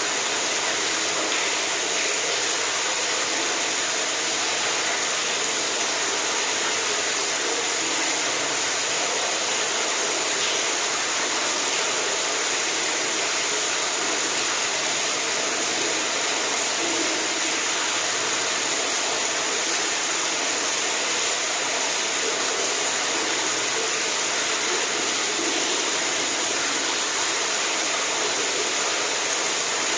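Running water: a steady, unbroken rush with no changes.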